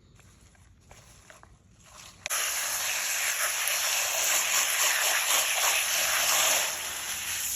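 Faint handling sounds, then about two seconds in a tap turns on abruptly and water runs steadily, washing freshly cut cat's ear greens.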